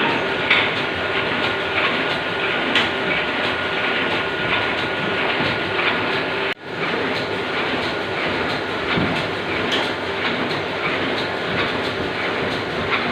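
Steady mechanical running noise with light scattered clicks, cutting out for an instant about six and a half seconds in.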